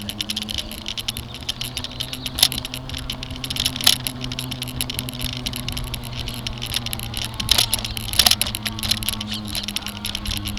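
Bike-mounted camera and bicycle rattling continuously while riding over a bumpy sidewalk, with a few louder knocks from jolts and a steady low hum underneath.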